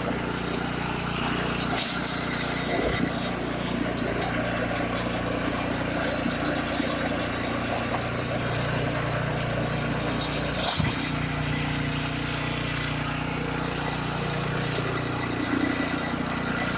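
Snowblower's small engine running steadily after being primed for a warm restart, with two brief louder noises about two and eleven seconds in.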